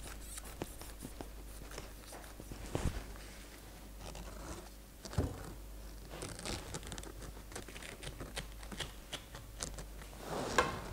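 Knife cutting and scraping through pineapple flesh while hollowing out a pineapple half: scratchy tearing sounds with scattered clicks and a few knocks, the loudest about three and five seconds in.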